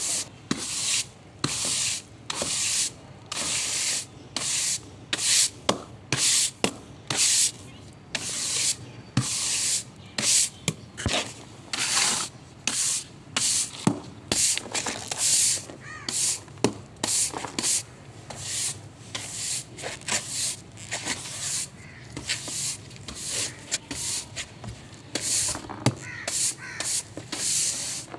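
Scrubbing: short, gritty rubbing strokes, roughly two a second, in runs with brief pauses between them.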